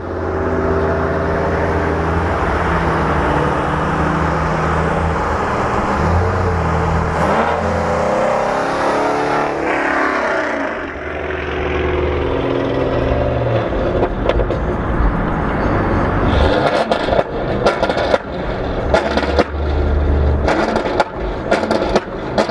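High-performance car engines running and revving, the pitch rising and falling. Past the halfway point, sharp exhaust pops and crackles join in.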